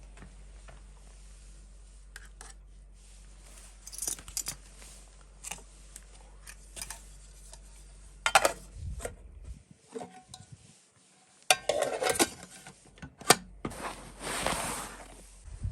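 Irregular clinks and knocks of small hard objects being handled, with a brief louder scraping rustle near the end.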